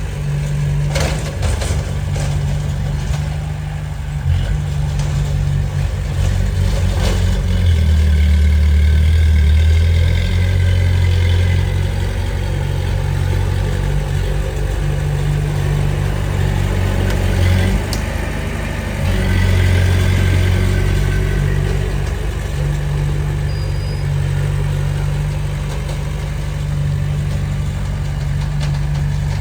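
Heavy earthmoving machine's diesel engine running steadily under changing load, swelling louder twice, with a few short metallic clanks near the start.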